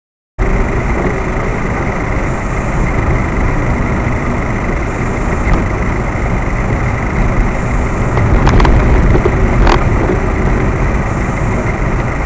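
Steady engine and road noise of a vehicle, picked up by a dashcam. It starts abruptly, and two sharp clicks come about a second apart, two-thirds of the way through.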